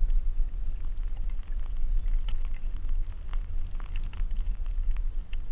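Wind buffeting the microphone as a steady low rumble, with scattered small crackles throughout.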